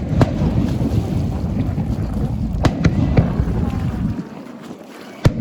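Fireworks going off: sharp bangs and crackles over a continuous low rumble of bursts. The rumble drops away about four seconds in, and another sharp bang comes near the end.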